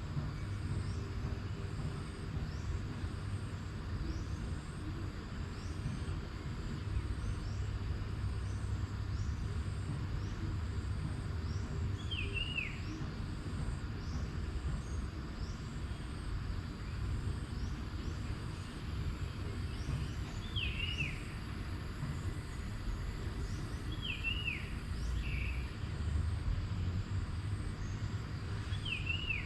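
Outdoor nature ambience: a bird repeats a short, falling two-note call about four times, over steady high insect chirping and a steady low rumble.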